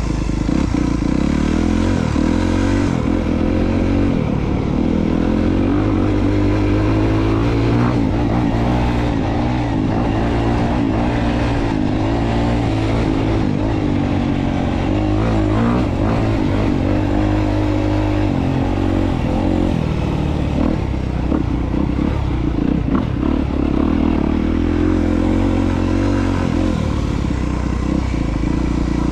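Honda CRF250R's single-cylinder four-stroke engine running under way, its pitch rising and falling continually with the throttle, with some clatter from the bike.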